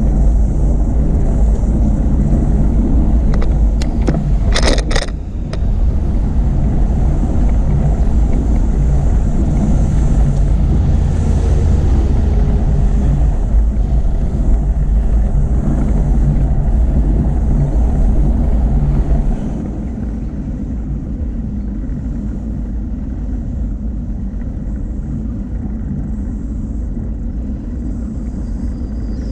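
Wind buffeting the microphone of a camera on a moving bicycle, a loud steady low rumble, with a brief rattle of clicks about five seconds in. The rumble drops noticeably about two-thirds of the way through as the rider eases off.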